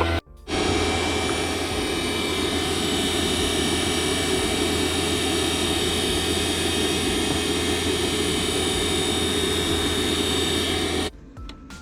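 Loud, steady running of a machine, a whooshing noise with several steady tones through it, cutting off abruptly near the end.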